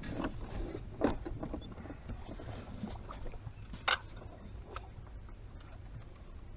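Low, steady rumble of wind and water around a small fishing boat, with a soft knock about a second in and a sharp click, the loudest sound, about four seconds in.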